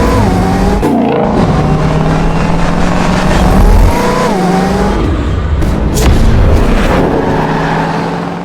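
Ford Mustang Shelby GT500's V8 accelerating hard, its note climbing in pitch and dropping sharply at gear changes, about four seconds in most plainly. Sharp cracks come through around one and six seconds in.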